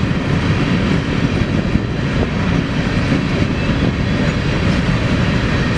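Freight train rolling past, a steady rumble of wagons on the rails.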